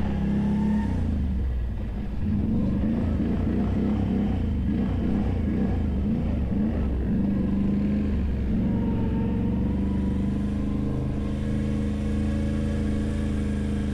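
ATV engine running under throttle. Its revs rise and fall unevenly for several seconds, then hold steady from about eight seconds in.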